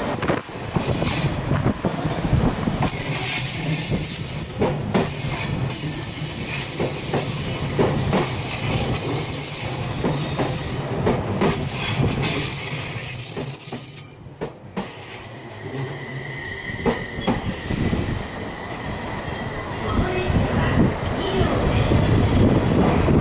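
A train moving along the station track, with its wheels squealing high and steady and sharp clicks from the rail joints, easing off briefly about two-thirds of the way through.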